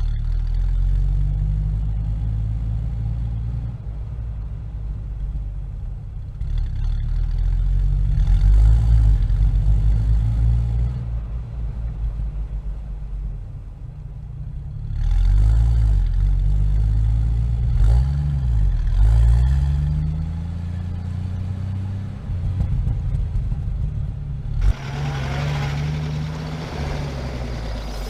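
Vehicle engine running with a low, steady drone. It revs up and down a few times around the middle, and a louder, rougher stretch with brighter noise comes near the end.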